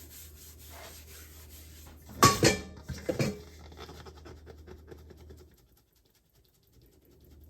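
Kitchen clatter on a countertop: two loud knocks about two and three seconds in, like containers or utensils being set down, followed by light scratching and tapping that dies away to near silence about halfway through.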